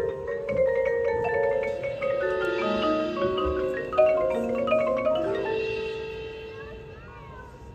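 High school marching band music led by mallet percussion, marimbas and vibraphones playing overlapping ringing notes. From about five seconds in the sound thins to a held chord that fades away.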